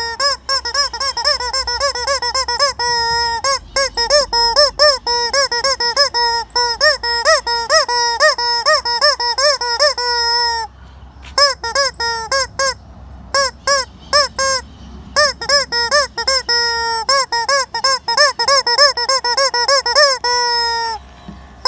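Rubber chicken squeak toy being squeezed over and over, giving rapid short honking squawks. A few longer drawn-out squawks come about three seconds in, near the ten-second mark and near the end, with brief pauses around the middle.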